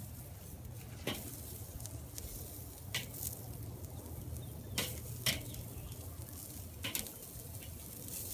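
Metal utensil clicking against the grill grate and pan as charred asparagus is lifted off, several sharp clicks a second or two apart, over a faint steady sizzle.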